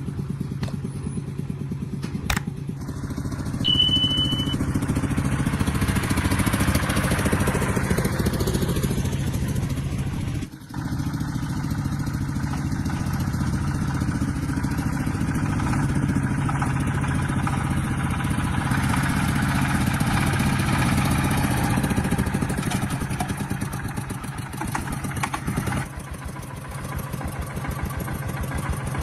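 Tractor engine running steadily with an even, rapid firing pulse. The sound drops out briefly about ten seconds in.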